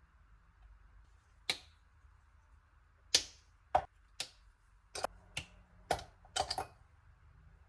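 Kitchen utensils and containers being handled during baking prep: about ten sharp clicks and light knocks at uneven intervals, some in quick pairs, the loudest about three seconds in.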